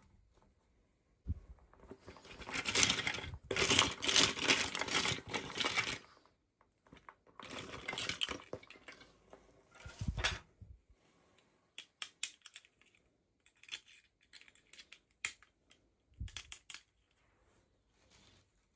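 Toy packaging being handled and opened: several seconds of crinkling and rustling, then a scatter of light clicks and taps from small plastic pieces, with a few dull knocks.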